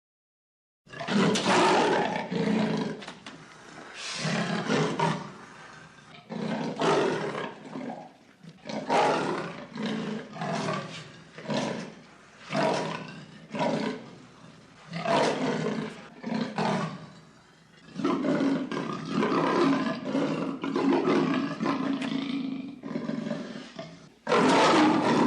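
Big cat roaring: a long series of loud calls, each about a second long, repeated at fairly even spacing.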